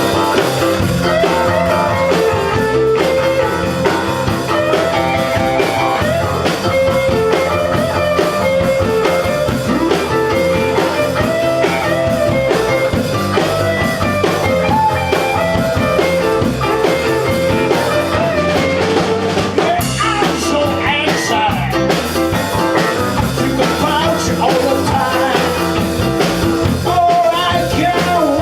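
A band playing a blues-rock song: electric guitar, bass and drum kit with a steady beat.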